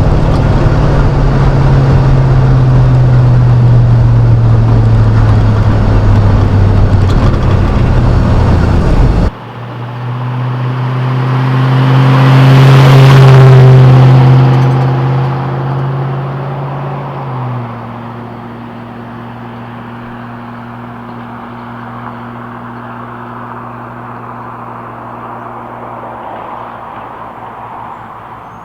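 Chevrolet 5.3L LM7 V8 exhaust through a straight-through Cherry Bomb muffler while the truck is driven: a loud, steady drone for about nine seconds, then a sudden cut to engine sound that swells and fades, dropping to a lower, quieter steady note.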